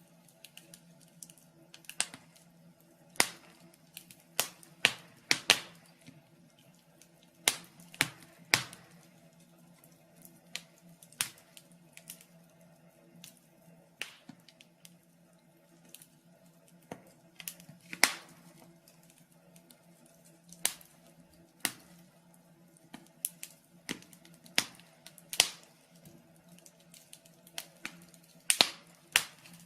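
Wood fire crackling in a fireplace: irregular sharp pops and snaps, roughly one a second, over a faint steady low hum.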